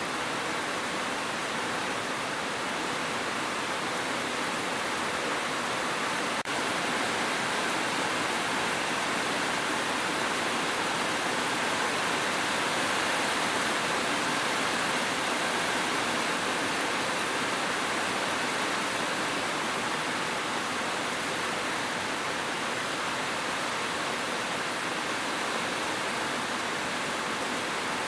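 Steady rushing water, a continuous even hiss without separate drops, with one faint click about six seconds in.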